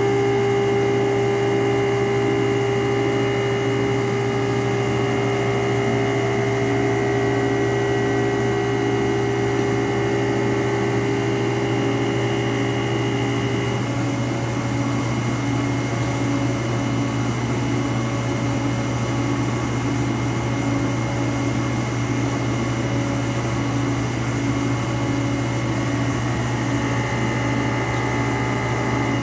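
Haas VF-4 CNC vertical machining center running under power: a steady mechanical hum with a high whine over it. About halfway through, the tone changes and one steady note gives way to a pulsing one.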